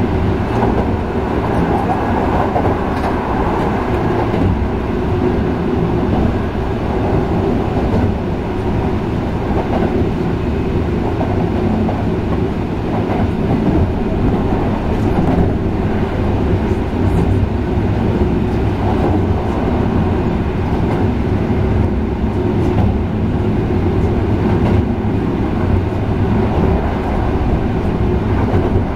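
Sanyo 5030 series electric train heard from inside the passenger car while running between stations: a steady rumble of wheels on rail with a few faint clicks over the track.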